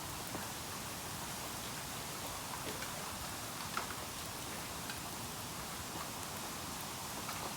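Bamboo burning in a bonfire: a steady hiss with scattered small crackles, and a sharper pop about four seconds in.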